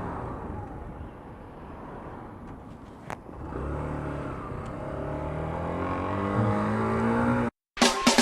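A vehicle engine pulling away and accelerating, its pitch climbing steadily for about four seconds after a rumbling start with a single sharp click. It cuts off abruptly near the end.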